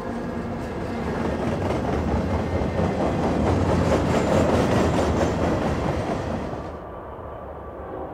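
Norfolk Southern freight train passing close by: the diesel locomotives rumble past, then gondola cars roll by with steady wheel clicks over the rail joints, loudest about four to five seconds in. About seven seconds in it drops abruptly to a fainter, duller background rumble.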